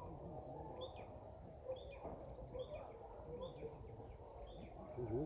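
A bird calling a short, high chirp over and over, about once a second, faint against low background noise.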